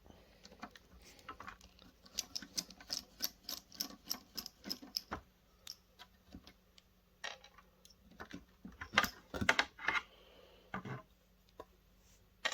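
Small screwdriver working a screw out of a metal plate on electronics: a quick run of light ticking clicks, then a few louder clicks and knocks in the second half.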